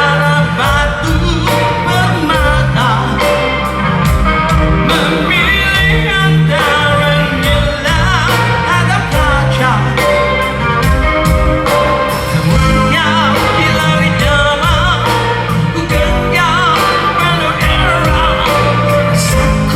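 Live rock band playing at loud volume, with singing over electric guitar, bass and drums.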